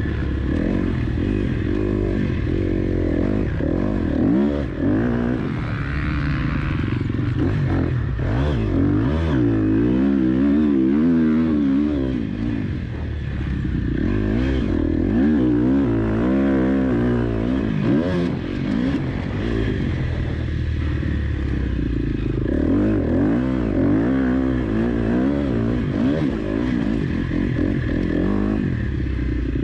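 KTM 250 SX-F motocross bike's single-cylinder four-stroke engine being ridden round a track, revving up and falling back again and again as the throttle is opened and closed.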